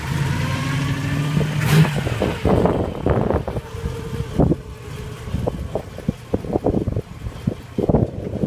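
Car engine running just after being started, a steady hum for about the first two seconds that then fades out. Irregular buffeting thumps, like wind or handling on the microphone, follow.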